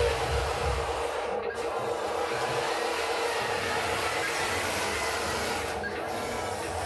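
Heavy machine engine running steadily, with a constant whine over a low rumble and a hiss.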